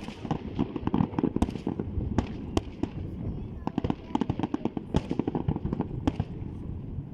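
Fireworks going off: a dense, rapid crackle of sharp pops over a low rumble.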